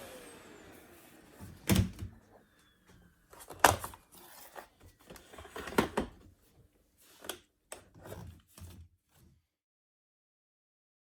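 Vacuum cleaner motor winding down, its whine falling in pitch and fading over the first second or so. Then a series of sharp clicks and knocks as the machine is handled; the loudest come about two, four and six seconds in.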